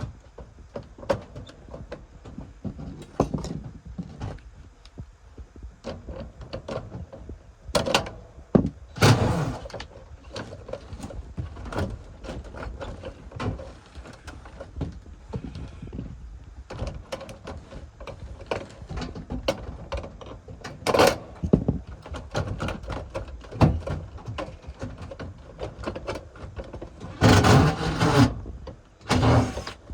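Irregular knocks, clicks and clanks of tools and equipment being handled during work, with a few louder, longer bursts of noise.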